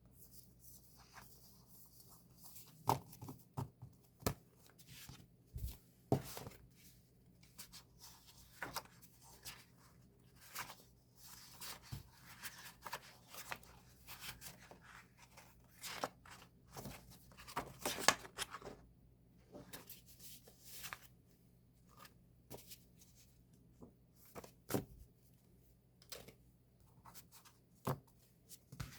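Paper and plastic album packaging being handled and unwrapped: irregular soft rustles, crinkles and light taps, busiest and loudest between about sixteen and nineteen seconds in.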